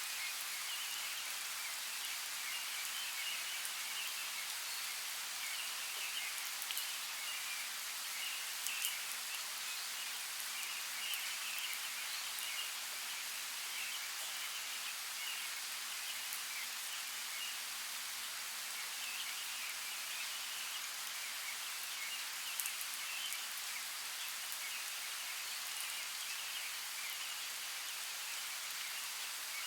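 Steady rain hiss with scattered sharp drop ticks, over a patchy chirping chorus in the background.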